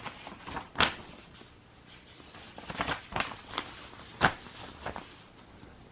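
Several short, sharp knocks and clicks at irregular intervals, the loudest about a second in and about four seconds in, over quiet room tone: objects being handled.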